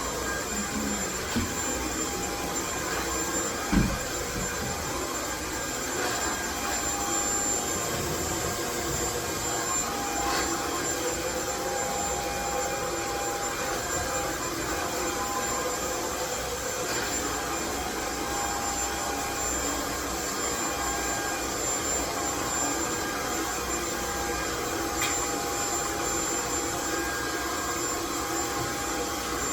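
Steady white-noise rush from a motor-driven machine, with a thin high whine and a lower hum running through it. A single thump sounds about four seconds in.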